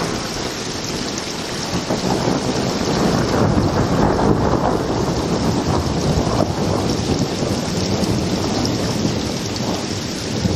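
A long roll of thunder that comes in suddenly, builds over the first few seconds and rumbles on, over the steady hiss of rain.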